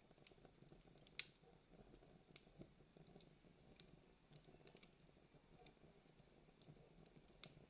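Wood campfire crackling faintly, with scattered irregular pops; the sharpest come about a second in and near the end.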